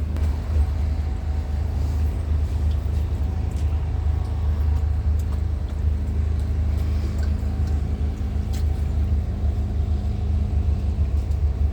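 Speedboat's four 250-horsepower outboard motors running with a steady low drone.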